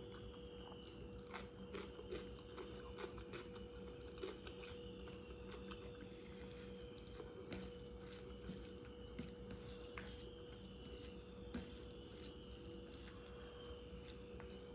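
Close-up chewing and crunching of food, starting with a raw cucumber slice being bitten, heard as many scattered crisp clicks. A steady faint hum runs underneath.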